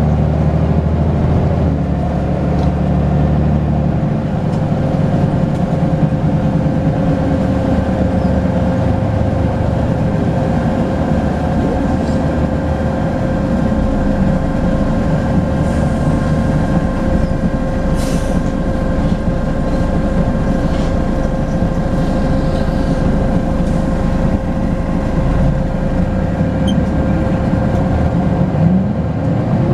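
Volvo B10BLE bus's six-cylinder diesel running under way, with a steady turbo whistle held at one pitch over the engine. Near the end the engine note rises as it picks up revs.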